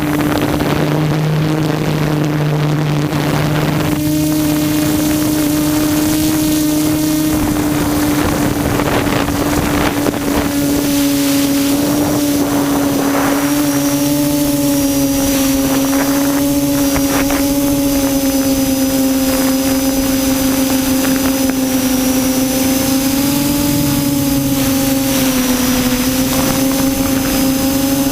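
QAV400 quadcopter's electric motors and propellers droning at a steady pitch, heard from the GoPro mounted on the craft. The pitch wavers slightly as the throttle shifts.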